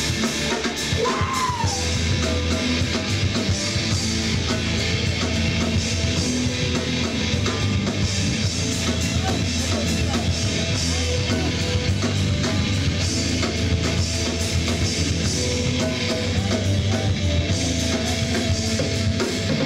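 Rock band playing live with distorted electric guitars, bass and drum kit, an instrumental stretch with no singing.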